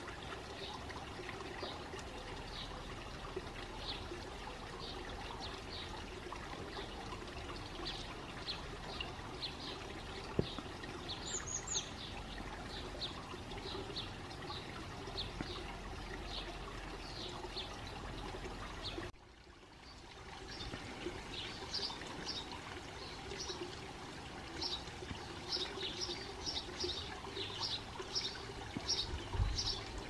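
A small songbird chirping over and over, short high notes about twice a second, over a steady background hiss. The sound dips about two-thirds of the way through, then the chirping comes back a little faster and denser.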